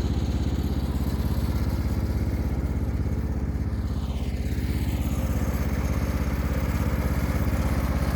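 1975 Cub Cadet 1000 garden tractor's 10 horsepower single-cylinder Kohler engine running steadily at an even speed.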